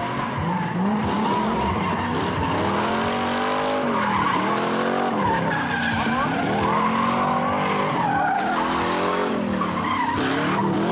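Car engine revving up and down over and over, its pitch rising and falling every second or two, with tyres squealing, as a car skids round in circles.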